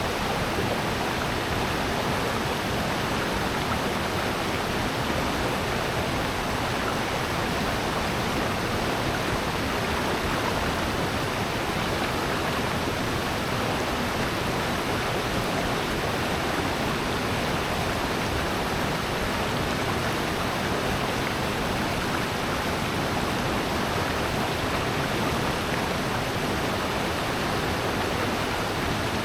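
Steady rush of water from a mountain valley stream and waterfall.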